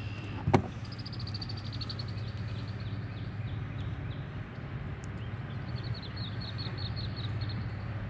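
A songbird sings two rapid high trills of evenly repeated notes, the first about a second in and the second near the end, over a steady low hum. There is a sharp click about half a second in.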